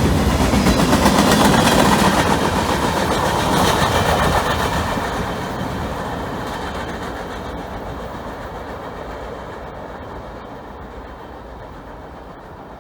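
Train rolling past on the rails and receding, its noise fading steadily away.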